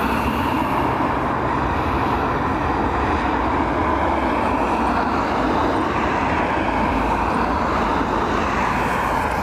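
Steady rushing noise of strong storm wind, with gusts buffeting the microphone as a flickering low rumble.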